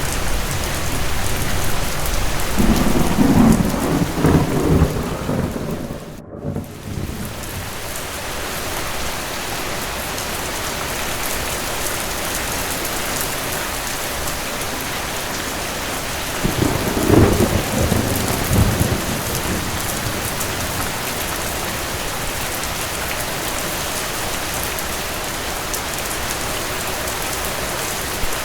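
Steady rain with two rolls of thunder, one a few seconds in and another just past the middle. The sound drops out for a moment just after the first roll.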